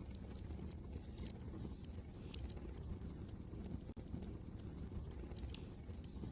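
Wood fire crackling, with irregular sharp snaps and pops several times a second over a steady low rumble, typical of wind.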